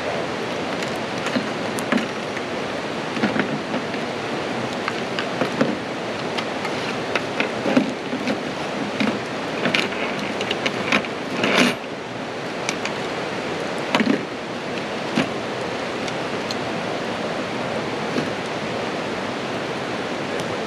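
Rain falling steadily as an even hiss, with scattered light knocks and clatters of camp cooking gear being handled, a few louder ones near the middle.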